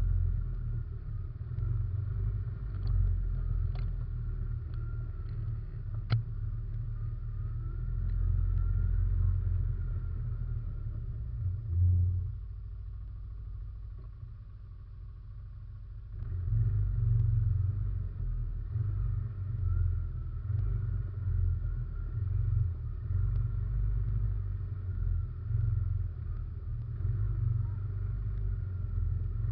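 Russian Mechanics RM 500 ATV's engine running under way, heard from a camera mounted on the quad, with a few sharp knocks early on. About twelve seconds in it eases off for several seconds, then pulls again.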